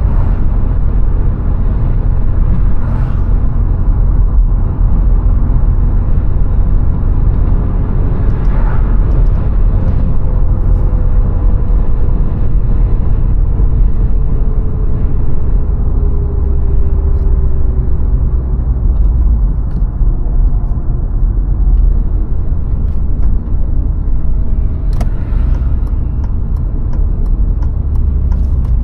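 VW Golf IV 1.6 driving along: a steady low rumble of engine and tyres on the road. A faint whine slowly drops in pitch through the middle, and there are three brief swells of hiss.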